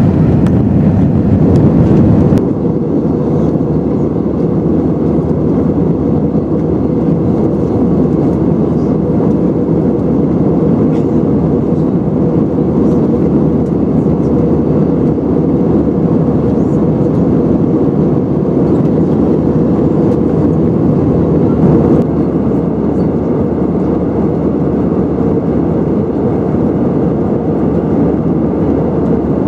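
Steady cabin noise of an Airbus A320-214 airliner in flight: a constant low rush of engine and airflow noise with faint high steady tones above it. The level steps down slightly about two seconds in, and again about three-quarters of the way through.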